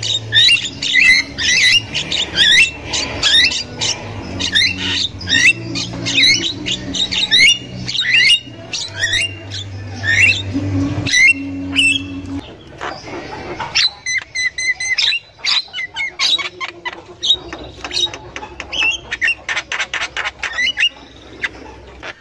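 Javan mynas calling: a string of loud rising squawks, then from about halfway a faster chatter of harsh clicks and rattles.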